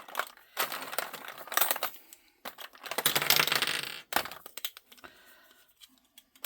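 Loose diamond-painting drills, tiny plastic resin beads, clattering into a container as they are poured, with a louder continuous rush of pouring about two and a half seconds in that stops suddenly around four seconds, followed by a few scattered clicks.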